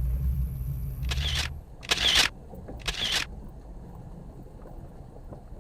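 A vehicle engine idling with a low rumble that cuts off about a second and a half in, with three short hissing bursts about a second apart.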